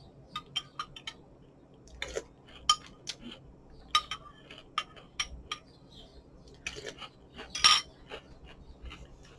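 Spoon clinking against a cereal bowl in irregular, separate taps, with a longer, louder clatter about eight seconds in.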